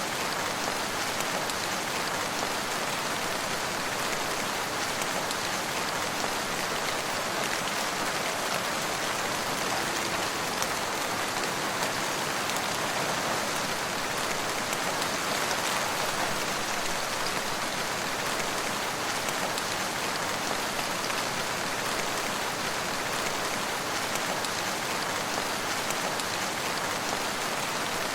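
Steady, even rain falling on surfaces, a dense hiss of drops with no thunder.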